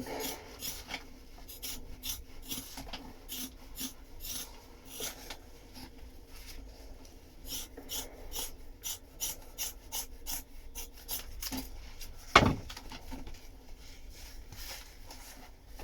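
Scissors cutting woven fibreglass cloth along the weave: a steady run of crisp snips and cloth rustles. One sharp, loud knock about twelve seconds in.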